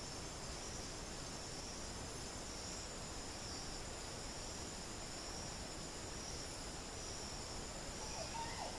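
Steady high-pitched insect chorus, crickets or katydids, over an even background hiss. Near the end a bird gives a faint call of one or two short falling notes.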